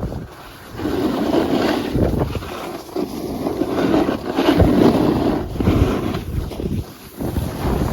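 Wind rushing over a phone's microphone during a snowboard run downhill, with the board scraping over the snow. The rush swells and fades several times.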